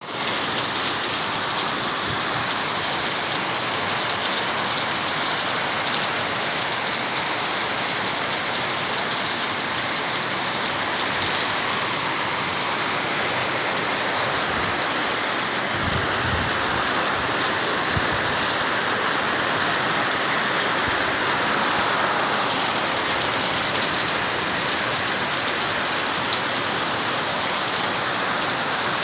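Steady heavy rain falling on surfaces, a dense even hiss of many drops, with a couple of brief low thuds a little past the middle.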